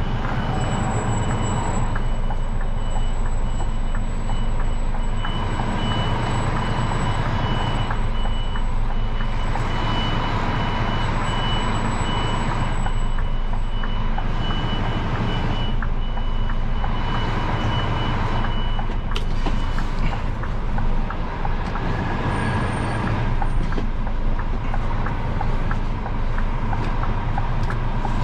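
Diesel engine of a basic (non-V8) Scania lorry running steadily at idle, heard from inside the cab, with a soft whooshing swell recurring every two to three seconds.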